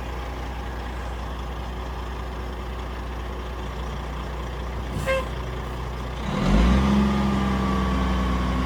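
Kenworth T800 dump truck's Detroit Series 60 diesel idling steadily. A brief click comes about five seconds in, then the engine speeds up at about six and a half seconds and holds a higher steady speed, as it does to run the hydraulic pump that raises the dump hoist.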